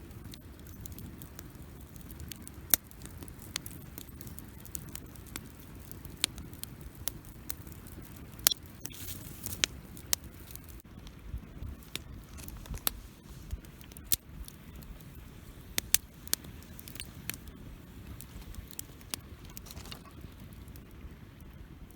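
Wood campfire burning, with irregular sharp pops and crackles over a low steady rumble. There is a brief hiss about nine seconds in.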